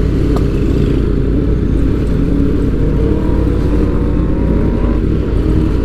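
Superbike engines revving, with a rev climbing in pitch about three to four seconds in.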